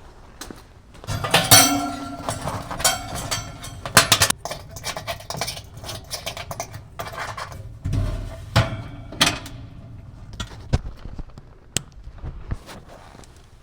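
Sheet-metal oven parts clattering and clinking as they are handled, with many sharp knocks, some ringing briefly, busiest in the first two-thirds and thinning out near the end.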